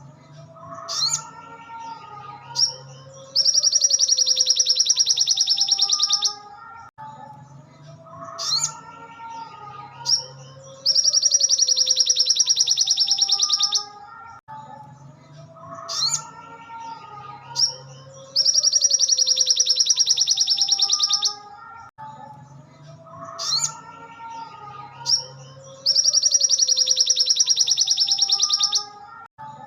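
Ruby-cheeked sunbird (sogon) song on a loop: a loud, rapid rattling trill about three seconds long, repeating four times, roughly every seven to eight seconds, with softer chirps and sliding notes between the trills.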